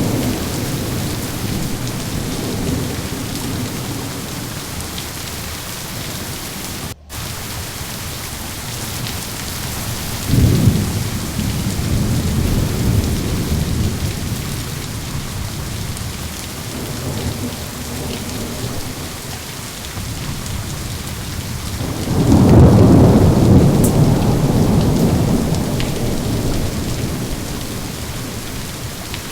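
Steady rain with rolling thunder: one rumble breaks in sharply about a third of the way through, and a louder, longer roll comes about three-quarters through, then fades. Near a quarter of the way in the sound cuts out for a split second.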